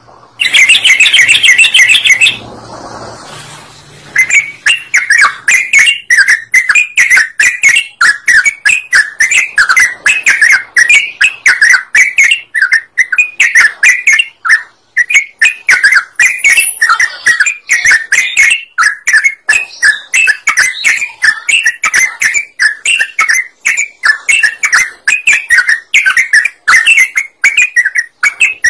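Yellow-vented bulbul (trucukan) singing: a fast, loud stream of bubbly chirping notes, a few to the second. There is a short lull about two to four seconds in, then the notes run on without a break.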